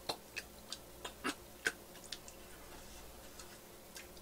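Mouth sounds of chewing a soft caramel pudding tart: a run of short, wet lip-smacks and clicks, most of them in the first two seconds, the loudest a little before the two-second mark.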